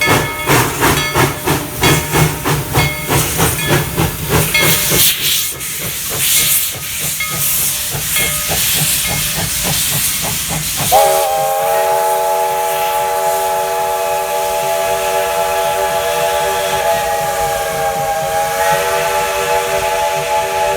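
Steam locomotive, most likely Tweetsie No. 190, working with a quick, regular chuff of exhaust beats that fade into steam hiss. About halfway through its original White Pass chime whistle opens into a long blast, a chord of several notes held steady.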